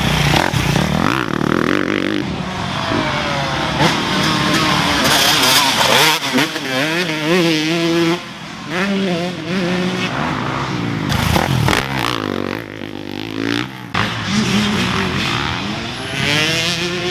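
Dirt bike engine running with the revs repeatedly rising and falling as the throttle is worked, with a brief drop in level about eight seconds in.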